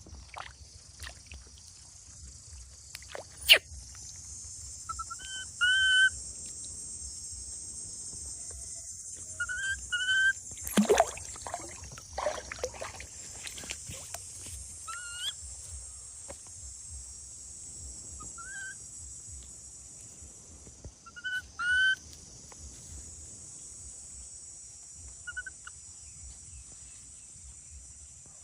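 Baby monkey giving short, high, whistle-like cries, mostly in pairs, every few seconds, over a steady high hiss. A sharp click comes a few seconds in, and there are some knocks near the middle.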